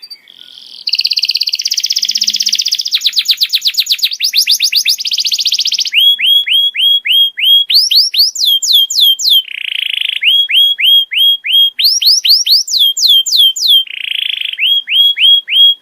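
Domestic canary singing: fast rolling trills for the first few seconds, then runs of short down-slurred whistles, rising-and-falling sweeps and brief buzzy rolls, repeated in phrases.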